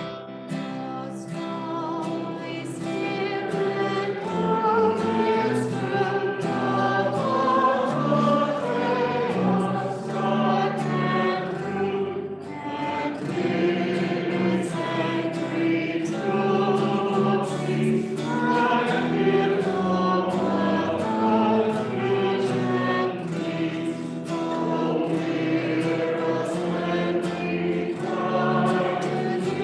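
A group of voices singing a hymn together, sustained sung lines that continue throughout.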